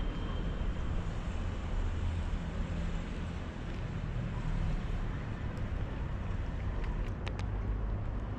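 A steady low rumble of outdoor background noise, with a few faint clicks about seven seconds in.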